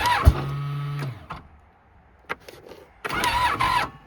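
Electric starter of a Polaris IQ 750 snowmobile whirring for about a second with a knock as it engages, then a second short burst about three seconds in; the engine does not fire, stiff from a night at about minus 40.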